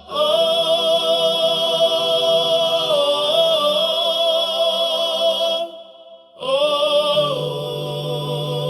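Music: a singing voice holding long wordless notes with vibrato, breaking off briefly about six seconds in before a second held note, with a low bass tone joining near the end.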